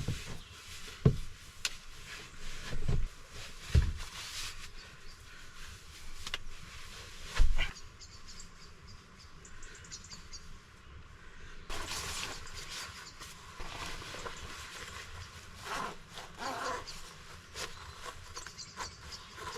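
A few sharp knocks and thuds, like things being handled and set down, with faint high bird chirps in between.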